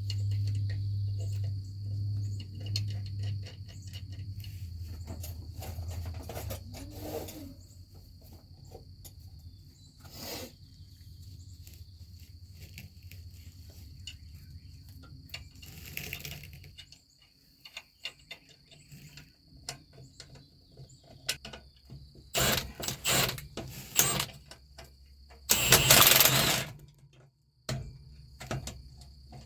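A steady low engine-like hum with scattered clicks and knocks of mechanical work. The hum stops about two-thirds of the way through. Near the end come two loud bursts of noise, each a second or two long.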